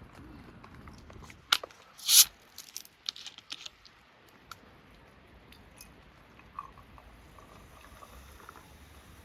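Eating sounds: a sharp click, then a short loud crunch about two seconds in and a few smaller clicks, before it goes quiet apart from a faint low background hum.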